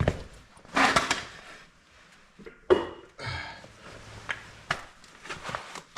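Metal engine parts being handled and set down: a sharp knock, a scraping rustle, then one loud clack with a brief ring, followed by light clinks and ticks.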